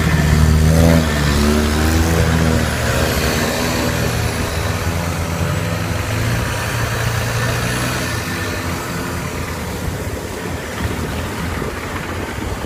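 Boat engine revving up, then running steadily and slowly growing quieter.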